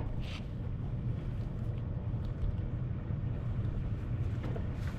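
Steady low mechanical hum of running machinery, with a faint tick just after the start.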